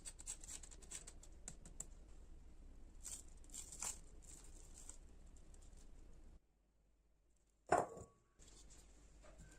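Kitchen food-preparation handling: a run of light clicks and scrapes, then after a short silent gap a single sharp knock with a brief ring, like a utensil or dish set down.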